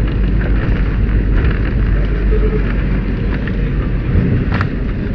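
Steady low rumble of a moving vehicle, with scattered light rattles and one sharp click about four and a half seconds in.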